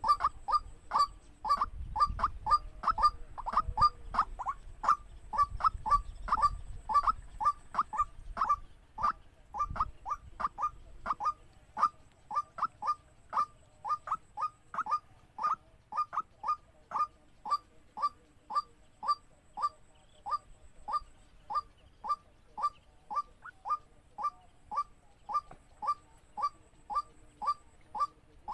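Waterhen call: one short, falling note repeated very evenly about twice a second, with a low rumble underneath for roughly the first ten seconds.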